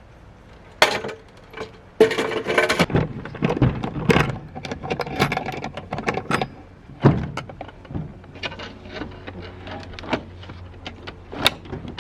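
Knocking and rattling of objects being handled: a sharp knock about a second in, a dense clatter for the next few seconds with another sharp knock, then lighter scattered clicks.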